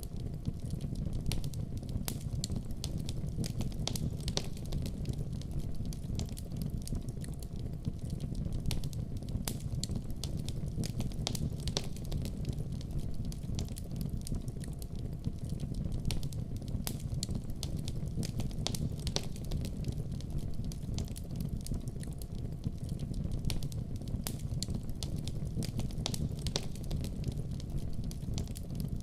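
Wood fire burning in a fireplace, with a steady low rumble of the flames and frequent irregular sharp crackles and pops from the logs.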